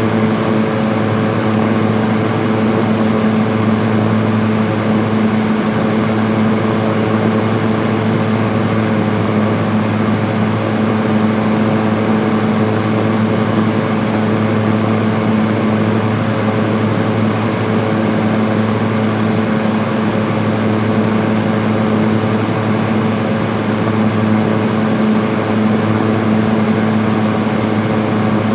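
Electric fan running on high speed: a steady whoosh of moving air over a constant motor hum.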